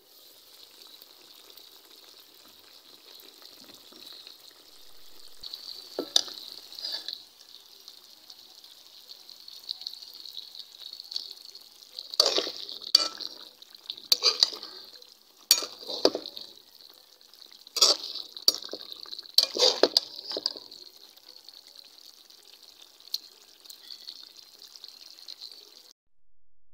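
Beef rendang sizzling in a metal pan as the coconut-milk curry cooks down, with a steady hiss. A metal spatula scrapes and stirs through it in a series of short strokes, most of them bunched between about six and twenty seconds in.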